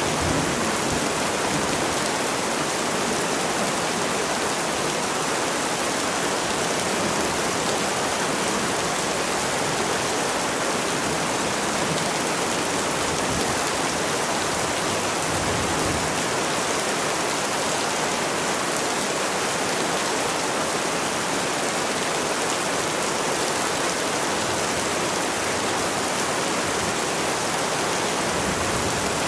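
Steady rain falling, an even hiss that keeps on at the same strength throughout.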